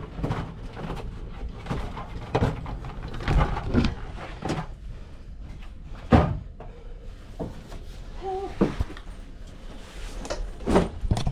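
A series of irregular knocks and clunks, the loudest about six seconds in, over a low background rumble.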